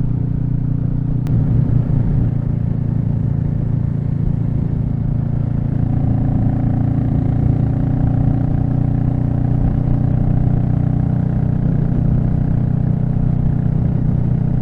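Royal Enfield Meteor 350's single-cylinder engine running at a steady cruise on the road, with road and wind noise underneath. A brief knock comes about a second in, and the engine note lifts a little around six seconds in.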